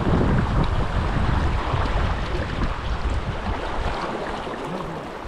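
Rush of a fast river current with wind buffeting the microphone. The low buffeting eases about four seconds in, leaving the steady rush of the water.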